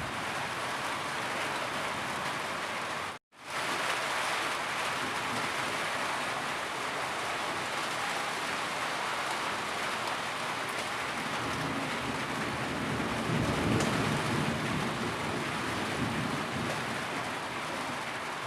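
Steady heavy rain, a continuous dense hiss of falling drops. It cuts out to silence for a split second about three seconds in, then grows a little louder and deeper a little past halfway.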